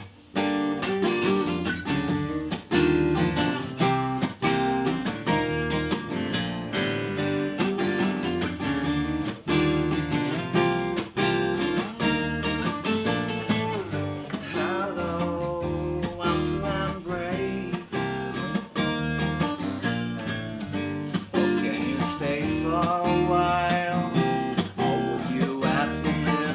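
Acoustic guitar playing the instrumental introduction of a song, with strummed chords and melodic lines above them. It starts suddenly right at the beginning and keeps going steadily.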